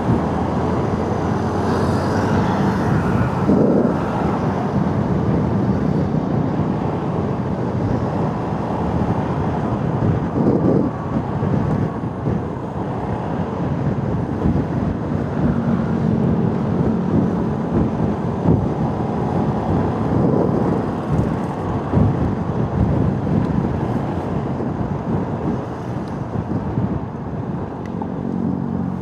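A motorcycle being ridden at speed: its engine running steadily under a constant rush of road and wind noise.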